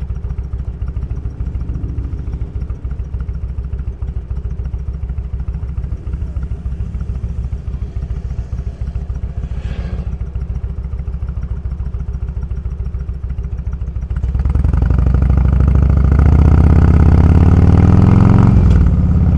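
Motorcycle engine idling with a steady low pulse, then pulling away about 14 seconds in, revs rising, with a gear change near the end.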